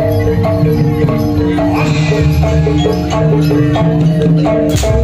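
Live jaranan music: a gamelan-style ensemble with struck metallophones playing a repeating melody over drums and steady low tones, and a sharp crash-like strike near the end.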